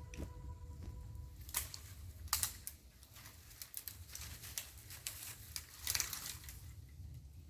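Irregular crackling and rustling of dry material, with a few sharper snaps about a second and a half in, around two and a half seconds, and again near six seconds. A low rumble runs underneath.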